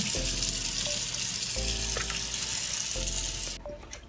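A steady hiss over laid-back hip-hop background music. The hiss cuts off suddenly near the end.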